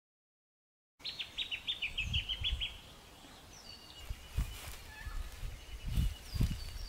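Outdoor ambience starting about a second in: a bird sings a quick run of about a dozen falling notes, then faint scattered bird calls, over low wind rumble on the microphone.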